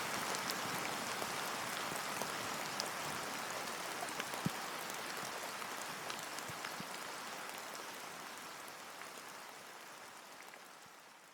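Steady rain with scattered drop ticks, fading out gradually toward the end.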